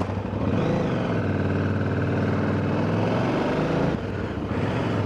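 KTM 990 Adventure's V-twin engine pulling under way, rising in pitch about half a second in and then holding steady, easing slightly about four seconds in.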